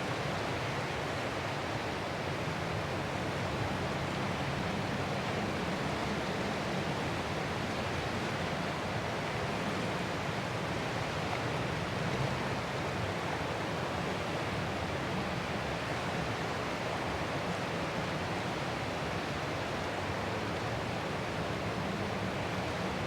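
Ocean surf as a steady, even rush of noise, with no separate wave crashes standing out.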